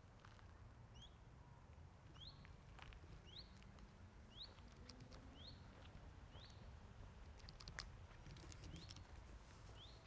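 Faint songbird calls: a short rising chirp repeated about once a second, over a low rumble with a few light clicks.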